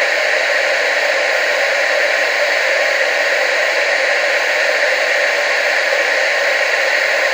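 Television static: a steady, even hiss of noise with no change in level, concentrated in the middle and upper pitches with little low end.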